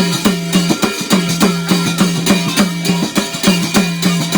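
Instrumental passage of Garhwali jagar music: a steady, fast drum rhythm of about four strokes a second, each stroke with a deep pitched tone that sinks slightly, with no singing.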